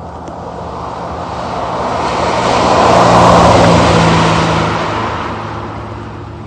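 A car driving past, its engine and exhaust growing louder to a peak about three seconds in and then fading away: the 4.0-litre V8 of a BMW E92 M3 Coupe.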